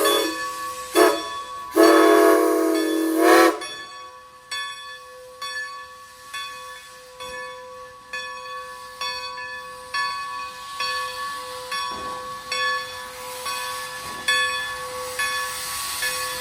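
Steam locomotive's compound air compressor working on low-pressure steam, with hiss. A pitched, whistle-like steam tone sounds twice in the first few seconds, the second ending in a short upward bend. After that, a steady hum continues with a regular stroke about twice a second.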